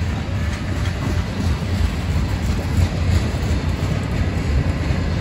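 Freight cars of a manifest train, a mix of boxcars, a tank car and covered hoppers, rolling past close by: a steady low rumble of steel wheels on rail with faint clicking.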